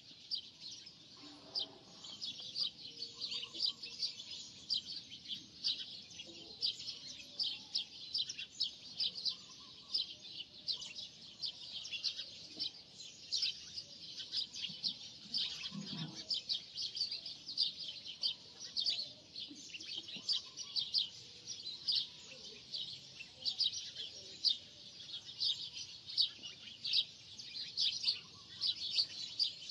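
Small birds chirping busily and without pause, many short high chirps overlapping several times a second.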